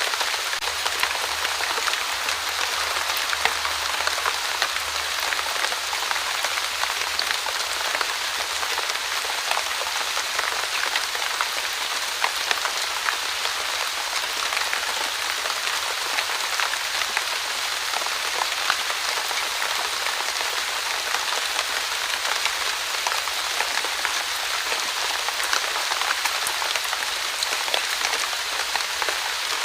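Light, steady drizzle: an even hiss of fine rain with a dense patter of small drops, unchanging throughout.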